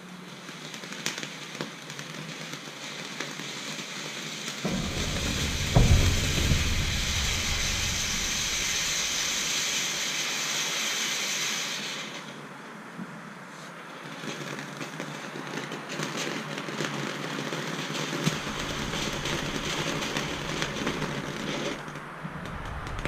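Reloadable consumer firework fountain spraying sparks with a steady hiss that builds, then stops abruptly about twelve seconds in. A quieter, crackly glitter sound follows, with scattered small pops and some low rumbling.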